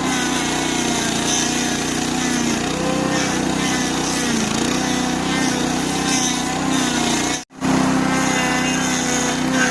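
Stump grinder's 8-horsepower engine running under load as the toothed cutter wheel grinds a stump. The engine pitch dips and recovers several times as the wheel bites in. The sound cuts out for a moment about seven and a half seconds in.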